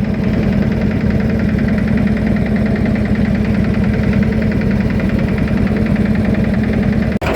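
Fishing boat's engine running steadily with a fast, even pulsing beat, cut off for an instant just before the end.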